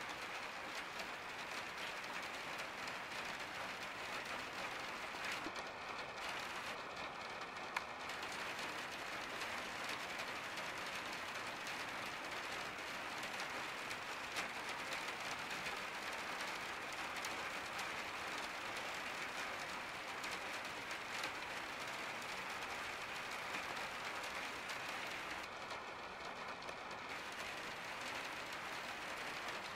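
Rain falling steadily on a skylight, heard from the room beneath as an even patter of many fine drop ticks.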